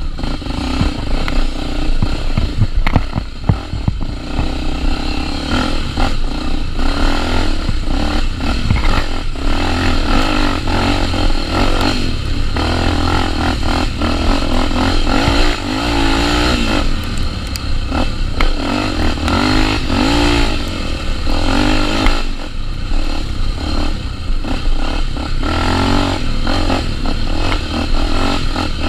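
Honda Tornado 250 single-cylinder four-stroke dirt bike riding a trail, its engine revving up and down over and over, with scattered rattles and knocks from the bike.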